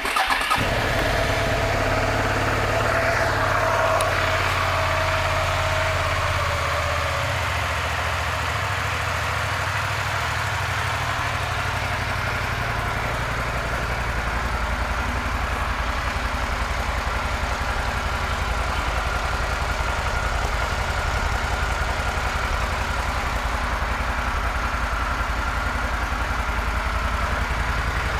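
2007 Suzuki SV650S's V-twin engine catching right at the start and then idling. Its note shifts a little over the first ten seconds or so, then holds steady.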